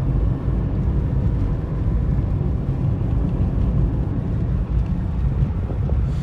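Steady low rumble of a motor vehicle on the move, engine and road noise with no distinct events.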